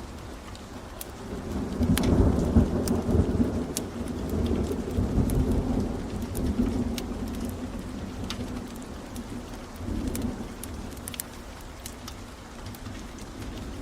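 Steady rain with rolling thunder: a long low rumble builds about two seconds in and fades away over several seconds, and a second, shorter rumble comes near the ten-second mark. Scattered sharp crackles run through it.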